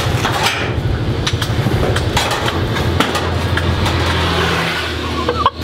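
Motor vehicle engine running steadily, with scattered clicks and knocks over it; the sound cuts off abruptly near the end.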